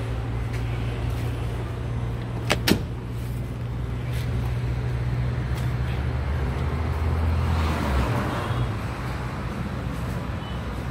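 A vehicle engine idling with a steady low hum. There are two sharp clicks about two and a half seconds in, and a rushing swell that cuts off sharply about eight seconds in.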